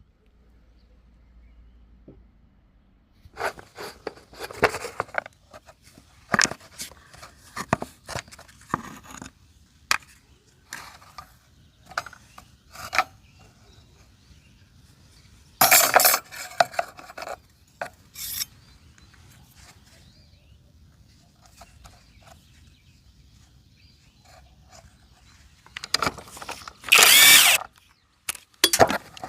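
Workshop handling noises from hand work on scooter parts: scattered knocks, clicks and scraping, with two louder rasping bursts, one about halfway through and one near the end.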